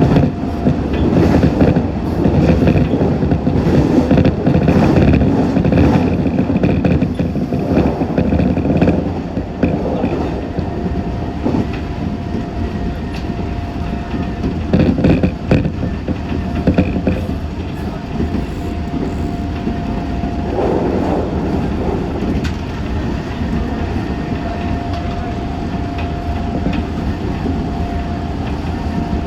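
Meitetsu 6500 series electric train running, heard from inside the car: steady wheel and rail noise with clacks over the rail joints, louder in the first third. A steady tone comes and goes several times.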